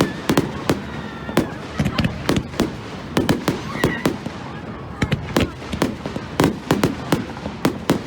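Fireworks going off in quick, irregular succession: sharp bangs and crackles, several a second, over a steady background rumble.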